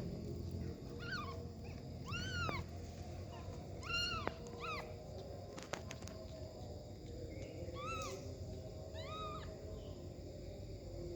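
Kittens mewing: short, high calls that rise and fall in pitch, about six spread across the stretch, over a low steady background noise.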